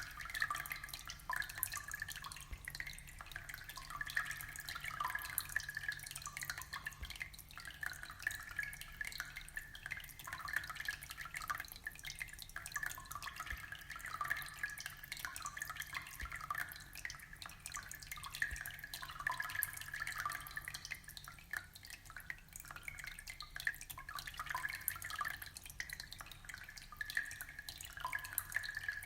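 Aquarium water trickling and bubbling in a continuous patter of small drips and splashes, with a steady low hum underneath.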